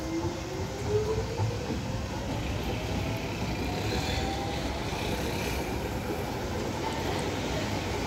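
Docklands Light Railway train pulling out of the station, its motor whine rising in pitch over the first few seconds above a steady low rumble of wheels on rail.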